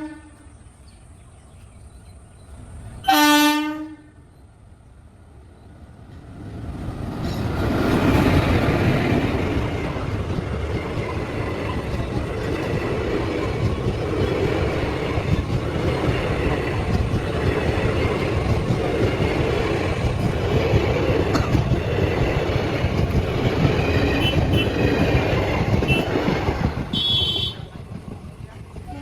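A train horn gives one short blast. Then a passing train builds from about six seconds in: a steady rumble with rail clatter for about twenty seconds. It drops away near the end, just after a brief higher tone.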